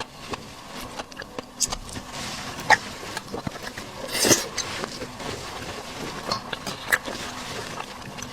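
Close-miked eating sounds: chewing and mouth smacks with scattered sharp clicks of food and utensils, and one louder breathy rush about four seconds in.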